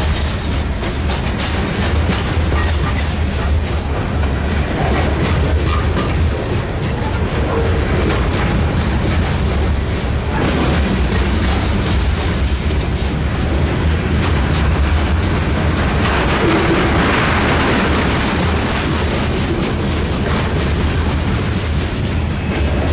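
Train rolling past, a steady loud rumble of wheels on rails.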